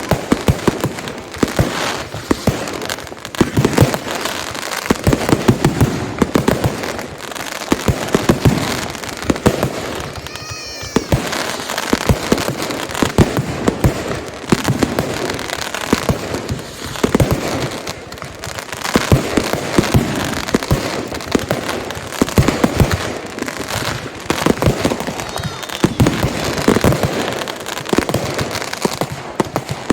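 Consumer fireworks display going off: a dense run of bangs and crackling, with a warbling whistle about ten seconds in.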